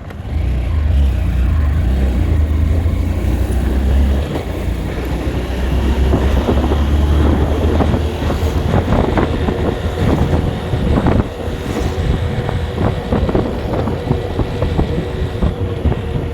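A vehicle on the move with a loud, steady low rumble. Around the middle a run of knocks and rattles comes through.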